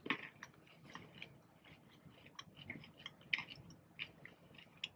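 Faint chewing of candy-shelled peanut M&Ms: scattered small crunches and mouth clicks at an irregular pace.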